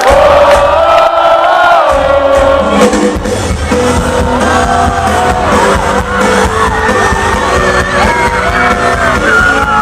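Live band music with singing over crowd shouts and whoops. Bass and drums come in about two seconds in, under held, gliding vocal lines.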